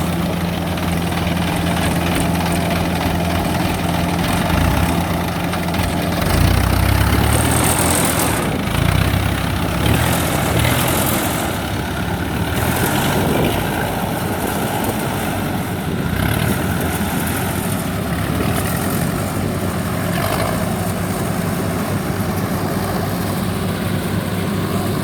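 Rice combine harvester's diesel engine running steadily under load. Its low note wavers between about six and ten seconds in, then settles.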